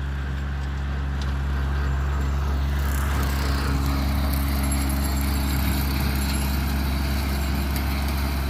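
Tractor engine running steadily under load while mowing with a bush hog rotary cutter, a steady low drone that grows slightly louder about three seconds in.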